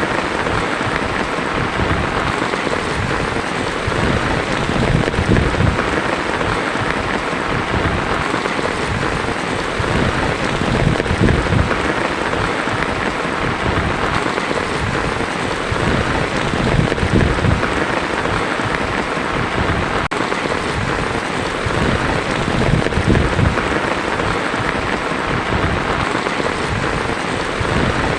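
Heavy rain falling on a tin roof, a dense, steady patter, with a low rumble underneath that swells and fades every few seconds.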